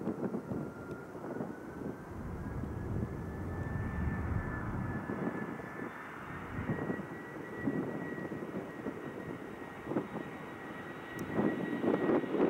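Jet engine noise from a four-engine Airbus A340-300 with CFM56 turbofans: a steady rumble under a thin engine whine that slowly rises in pitch, growing louder near the end, with gusts of wind on the microphone.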